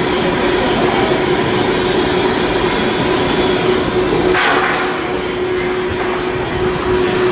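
Shipyard machinery running with a steady drone and a constant hum, and a short hiss-like burst about four seconds in.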